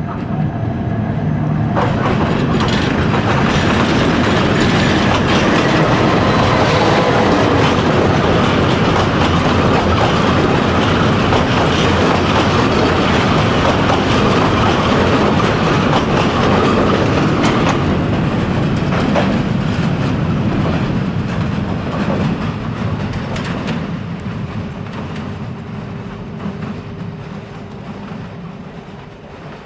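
Diesel-hauled passenger train passing on a steel girder bridge, its wheels clattering over the rail joints. The sound builds over the first couple of seconds, stays loud while the coaches go by, then fades away over the last third as the train moves off.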